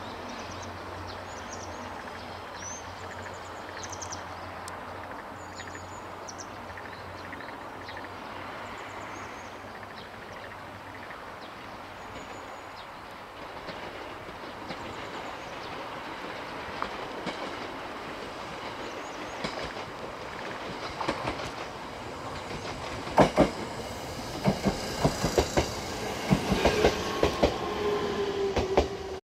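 Electric multiple-unit train approaching over the points, a low rumble building until its wheels clack sharply over the switch and rail joints in the last few seconds. A brief wheel squeal comes near the end.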